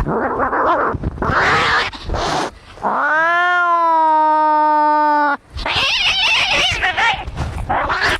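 Domestic cats fighting: harsh, rough growling and hissing, then about three seconds in one long yowl that rises and then holds a steady pitch before cutting off abruptly, followed by more harsh hissing and spitting.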